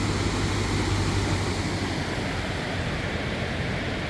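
Steady rush of ocean surf and wind, with no distinct events.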